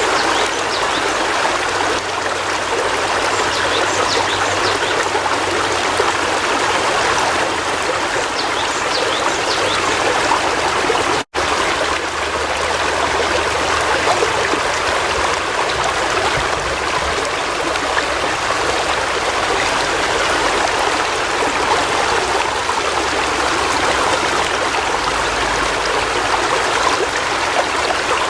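River water flowing in a steady, even rush with trickling, broken by a split-second gap about eleven seconds in.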